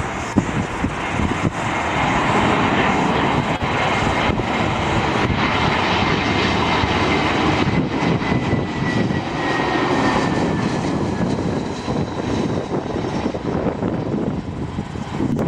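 Airliner engines as a Jetstar plane passes, a steady heavy rush with a high whine that slowly drops in pitch about halfway through as the aircraft goes by.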